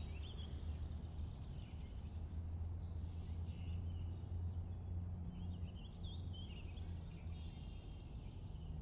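Bird chirps and twitters over a steady low hum.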